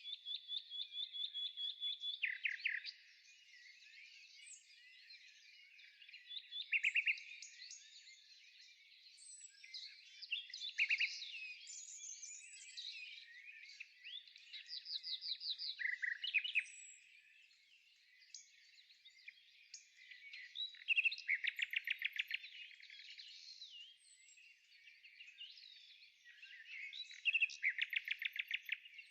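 Birds singing: a steady chorus of high chirps, with a loud, fast trill of rapidly repeated notes every few seconds, about six in all.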